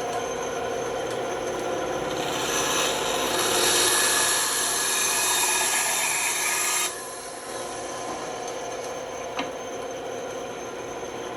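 Band saw running steadily. About two seconds in, the blade cuts into a workpiece and cuts for about five seconds. The cutting noise stops suddenly and the saw runs on idle.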